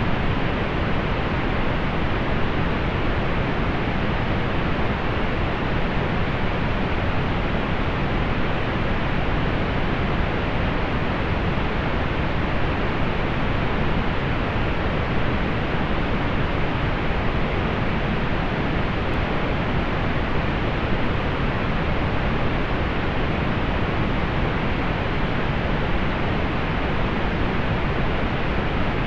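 Steady synthetic pink noise: an even, unchanging hiss weighted toward the low end, with the highs rolled off.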